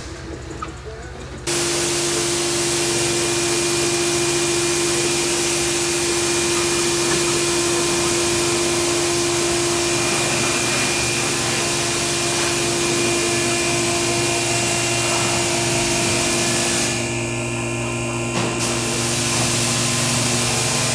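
Electric pump motor of a hydraulic two-post car lift, starting suddenly and running steadily for about twenty seconds with a hum and a loud hiss as it raises the car. The hiss briefly thins out about seventeen seconds in.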